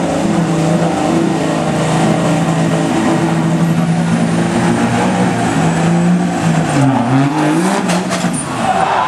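Diesel pickup truck engine running at high revs under heavy load while pulling the sled. The pitch holds steady, then dips about seven seconds in and climbs again near the end.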